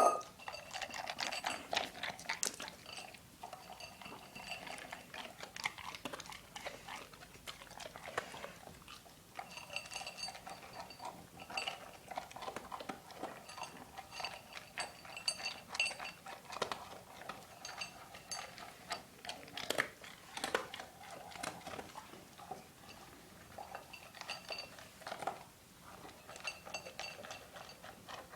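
A dog eating from a bowl: irregular chewing and clicks, with clinks that leave the bowl ringing at a steady pitch. There is a louder knock right at the start.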